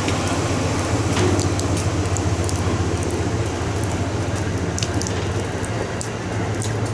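A train rolling through: a steady low rumble with scattered sharp clicks and crackles.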